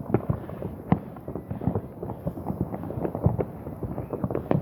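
Fireworks going off in many places at once: a dense, irregular run of pops and bangs, several a second, with louder bangs about a second in and near the end.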